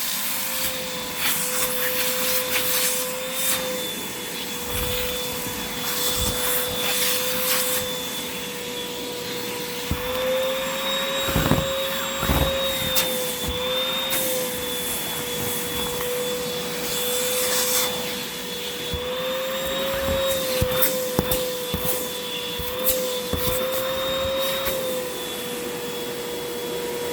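Hoover WindTunnel 2 Rewind upright vacuum running with its hose and upholstery tool in use: a steady motor whine whose pitch rises slightly a few times. Scattered scrapes and knocks come from the tool working over the sofa's base.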